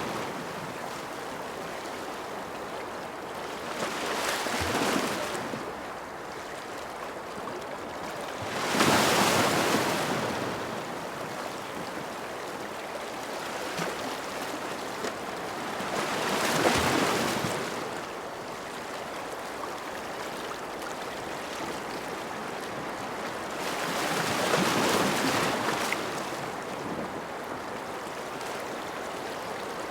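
Ocean waves breaking and washing ashore: a steady hiss of surf that swells four times, about every seven or eight seconds, loudest about nine seconds in.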